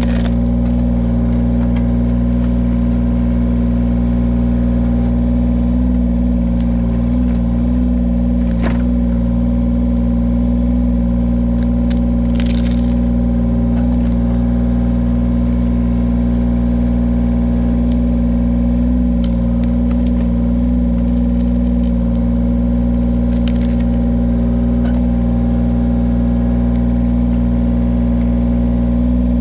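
Engine of a firewood-splitting cutter machine running at a steady speed, with a few short cracks and knocks from the work.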